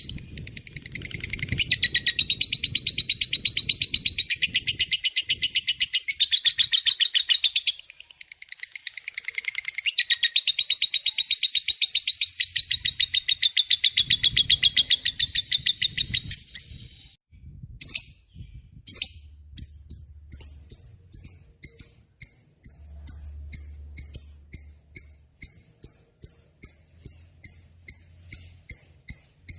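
Lovebird giving its long, rapid chattering song (ngekek), a fast unbroken run of high notes that pauses briefly near 8 s and stops about 17 s in, followed by a slower, even series of sharp chirps about two a second.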